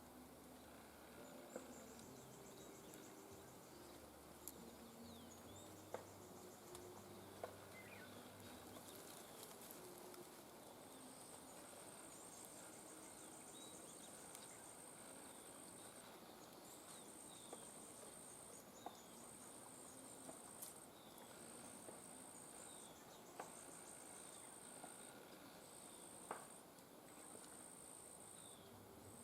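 Faint outdoor ambience: an insect trilling high-pitched in repeated bursts of about a second and a half with short pauses, with a few scattered faint clicks.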